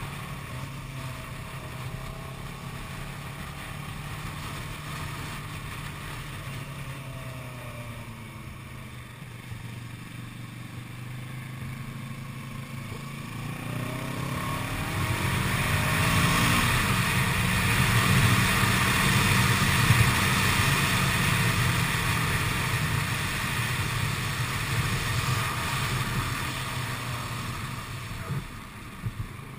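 Kawasaki ER-6n's parallel-twin engine running while riding, heard from a bike-mounted camera. About halfway through the revs rise as it accelerates, and the engine and wind noise grow louder, then ease off gradually toward the end.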